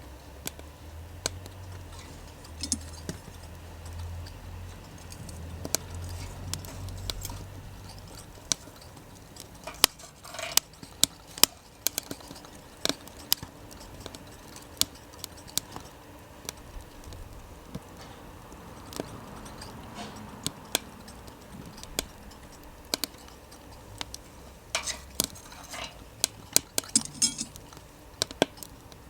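Wood fire crackling in a small wood stove, with irregular sharp pops and snaps and a few short, ringing metallic clinks.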